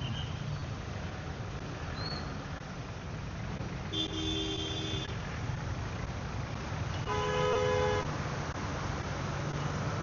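Vehicle horns honking twice, each blast about a second long, over steady low traffic noise.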